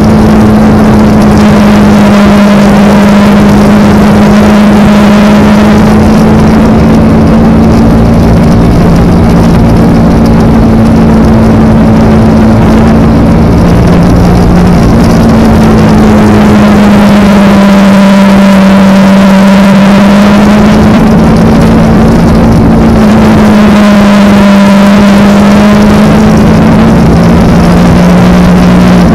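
Kawasaki Ninja motorcycle's parallel-twin engine running at a steady cruise, its pitch holding nearly constant with only slight dips and rises, under a constant rush of wind noise.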